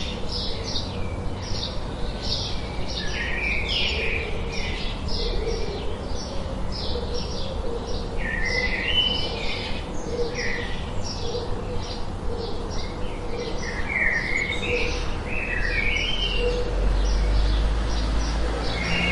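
Birds chirping: short high chirps repeated about twice a second, with lower, quicker chirping phrases in between. A low rumble comes up near the end.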